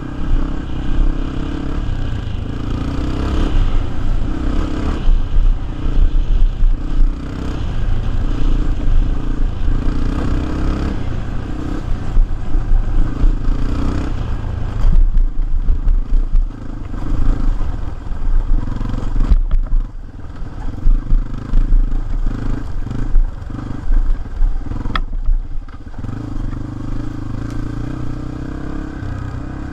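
Single-cylinder four-stroke dirt bike engine running while riding, the throttle opening and closing so the level rises and falls, with clattering from the bike over rough ground. The engine drops off briefly twice, about two-thirds of the way through and again a few seconds later.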